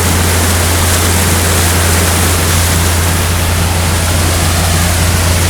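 Pontoon boat underway: a loud, steady rush of wind and water with the constant low hum of the boat's motor beneath it.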